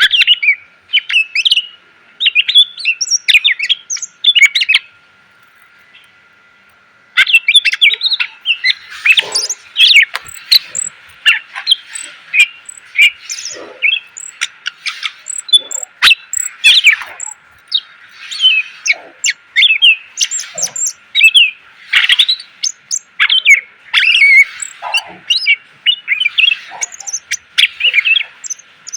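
Green leafbird (cucak ijo) singing a fast, varied song of sharp chirps and whistled phrases, full of inserted phrases. A few short bursts come first, then a pause of about two seconds, then unbroken song from about seven seconds in.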